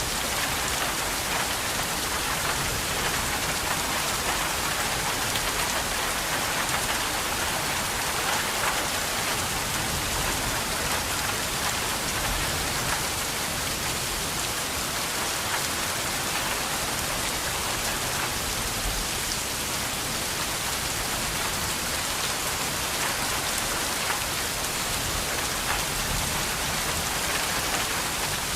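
Steady rain falling, an even hiss of drops pattering on surfaces with no let-up.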